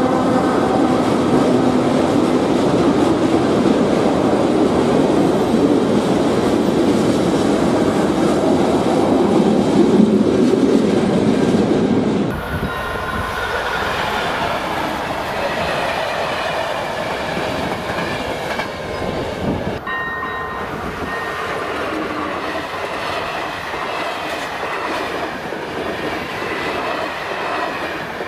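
A train passing close by, its wheels clattering over the rails. About twelve seconds in the sound cuts abruptly to a quieter scene where steady ringing tones sound over fainter train noise, typical of a level crossing's electronic warning signal.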